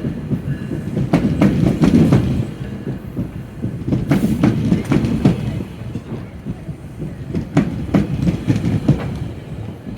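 Train running on its rails: a low rumble with irregular clicks and clacks from the wheels, loudest for the first two seconds or so and then a little quieter.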